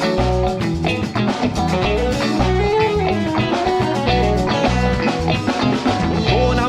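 Instrumental band music: guitar over bass and a drum kit keeping a steady beat, with no vocals.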